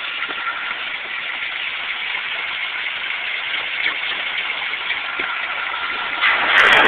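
A 1972 Chevy pickup's 350 V8 with a Rochester four-barrel carburettor idling steadily, recorded on a phone; the sound gets louder near the end.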